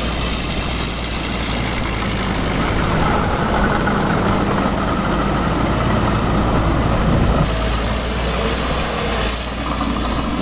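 Tractor engine running steadily, with a thin high-pitched whine over it.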